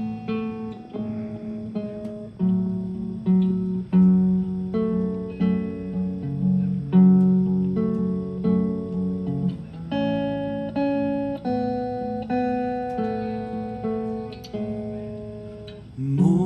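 Acoustic guitar playing a strummed and picked chord intro, changing chords every second or so.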